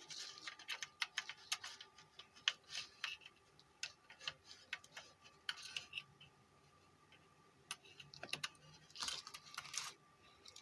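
Faint, irregular clicks, taps and short scrapes of a car stereo head unit and its wiring being handled while it is connected up.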